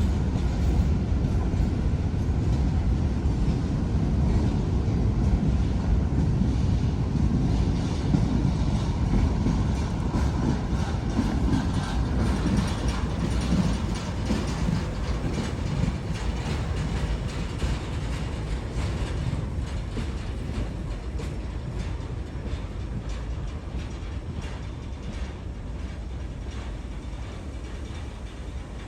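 Freight train cars rolling past, a steady rumble with wheels clacking over rail joints, fading gradually over the second half.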